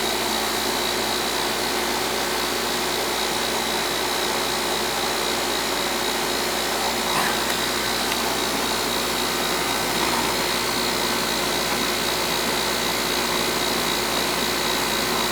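Coleman R-410A air-conditioner condensing unit running steadily, its condenser fan blowing air out the top, with a thin high tone running through the noise.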